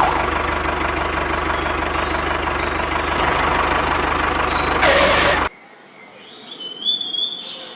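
A motor running steadily with a fast low throb, cut off abruptly about five and a half seconds in, followed by a few short chirping glides.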